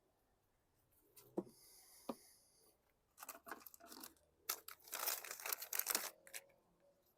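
Handling noises on a workbench: two sharp clicks, then a few seconds of crinkling and rustling that gets denser and louder before stopping short of the end.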